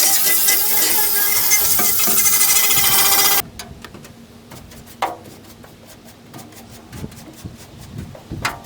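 4.5-inch angle grinder with a polycarbide abrasive wheel grinding rust and scale off a steel truck bed, a loud steady whine with grating hiss that cuts off suddenly about three and a half seconds in. After that come quiet clicks of handling and a couple of knocks.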